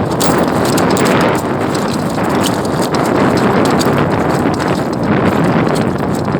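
Strong wind buffeting the microphone: a loud, steady rushing with many small scattered knocks.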